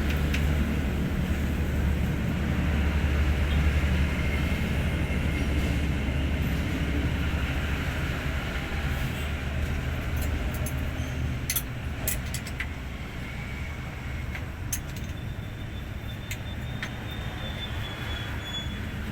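Hino 500 truck diesel engine running steadily with a deep, even rumble, easing a little in level about two-thirds of the way through, with a few light clicks over it.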